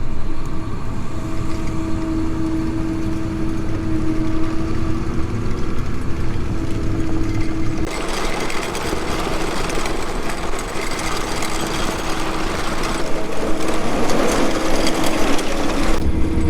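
Prinoth Bison X snowcat's diesel engine running steadily under load as the machine works up a slope, with a steady hum. About halfway through, a loud hiss joins in suddenly and cuts off just as suddenly near the end.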